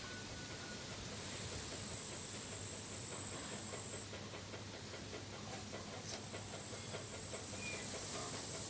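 Crickets chirring in a steady high-pitched drone that cuts off about four seconds in and starts again about two seconds later, over a soft hiss of wind in the garden.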